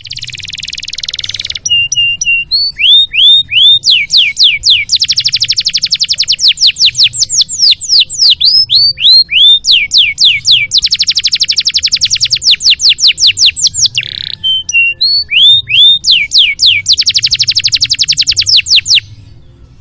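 Domestic canary singing a long, varied song: very fast trills of repeated notes alternating with series of downward-sweeping whistles and short steady notes. The song stops abruptly near the end.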